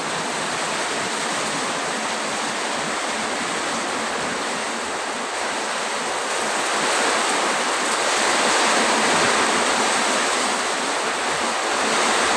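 Heavy rain pouring down in a strong windstorm: a dense, steady rush that grows a little louder about seven seconds in.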